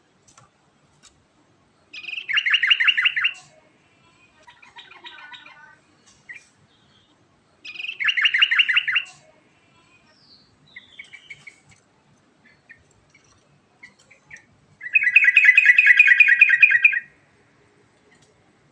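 Yellow-vented bulbul singing: three loud, rapid rattling trills, the last and longest about two seconds, with softer scattered notes between them.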